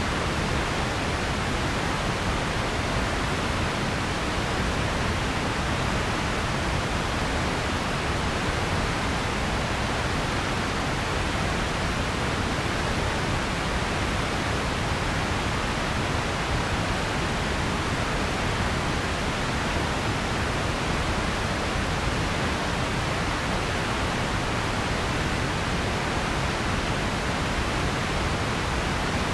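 Steady background noise like pink noise: an even, unchanging hiss with a full low end, tapering off at the very top.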